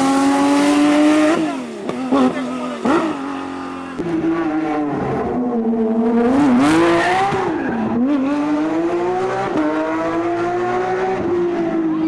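Porsche rally car engine revving hard through the gears, its pitch climbing steadily and then dropping sharply about six times at each shift or lift-off.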